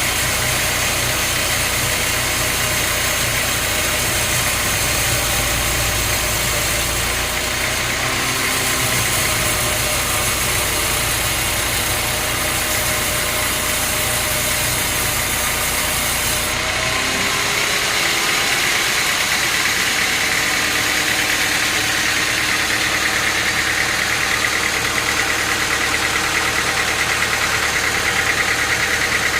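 Engine-driven machinery running steadily, loud throughout. About two-thirds of the way through, the low rumble drops away and a higher whine comes up in its place.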